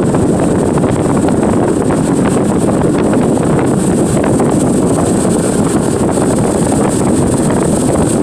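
Tour boat running underway: a loud, steady engine and hull noise with wind buffeting the microphone.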